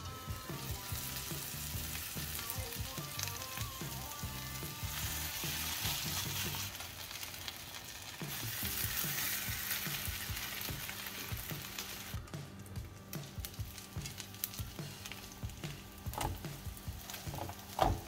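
Grated-potato rösti frying in olive oil and butter in a pan, partly covered by a lid, with a steady sizzle. The sizzle thins about twelve seconds in.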